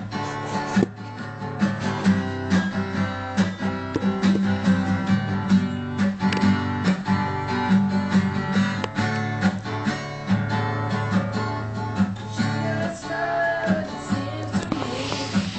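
Guitar playing: quick plucked and strummed notes in a steady rhythm.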